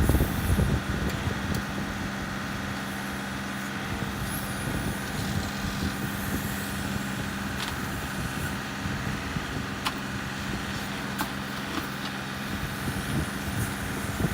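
A motor vehicle's engine running steadily, an even low hum.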